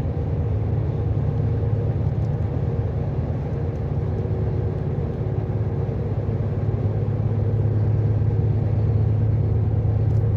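Volvo semi-truck's diesel engine drone and road noise heard inside the cab while driving on the highway. The sound is a steady low hum that grows slightly louder in the second half.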